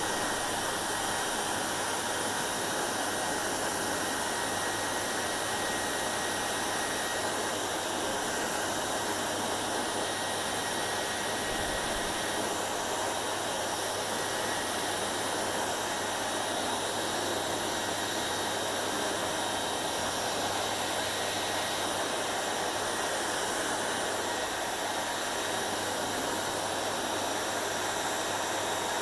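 Hair dryer running steadily: a constant rush of blown air with a low motor hum underneath.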